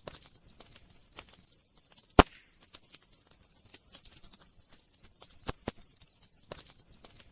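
Wood fire crackling: many small ticks with a few sharp pops, the loudest about two seconds in and two more about three quarters of the way through.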